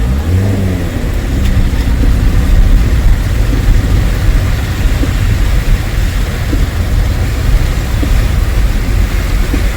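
A motor vehicle's engine running close by in road traffic, its pitch rising in the first second or so, over a steady deep rumble.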